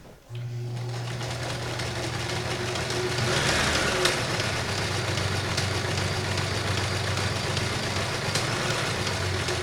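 Kenmore 158.19311 sewing machine running steadily at speed, its motor humming and the needle mechanism clattering as it sews a cam-controlled smock stitch. The motor starts just after the beginning.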